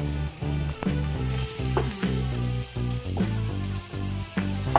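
Diced white onions sizzling in butter and oil in a frying pan, stirred with a wooden spatula, with background music playing underneath.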